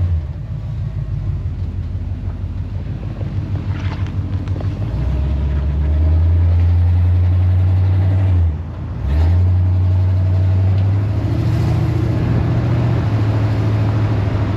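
1978 Chevrolet C10 pickup's engine running through its newly welded aftermarket exhaust while the truck is driven, a steady low exhaust drone that steps in pitch and dips briefly twice, near the start and just past halfway.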